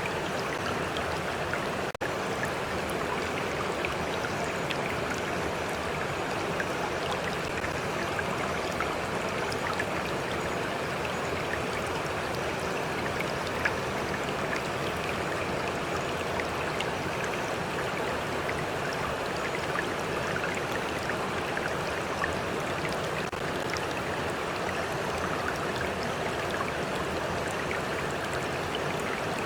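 Stream water flowing and lapping, a steady rushing with many small splashes and drips. There is a brief dropout about two seconds in.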